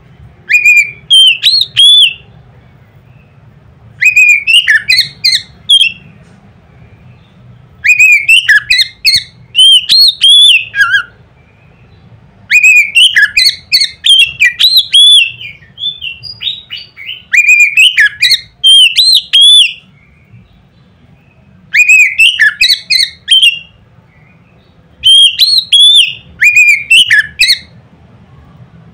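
Oriental magpie-robin (kacer) singing loud phrases of whistled, gliding notes, in about seven bursts of roughly two seconds each with short pauses between, over a faint low hum.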